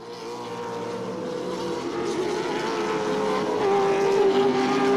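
Racing car engines running, growing steadily louder; the main engine note drops slightly in pitch about three and a half seconds in.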